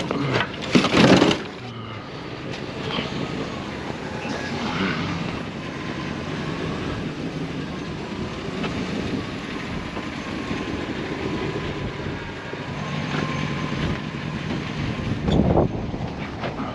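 A couple of loud knocks and clatter about a second in, then the steady running and road noise of a vehicle driving, with another brief loud clatter near the end.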